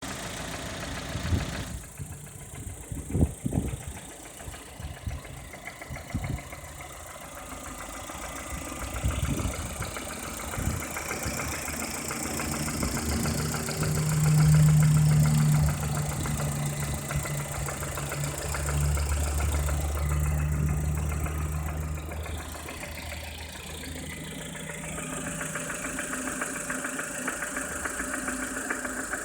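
Lada Kalina Cross engine running warm at idle with a knock, a fault noise from inside the engine. A few sharp strikes stand out in the first few seconds, and the engine note shifts in the middle.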